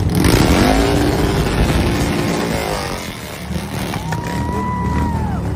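Motorcycle engines running in traffic; one revs up in the first second. About four seconds in comes a long horn-like tone that bends up at the start and down at the end.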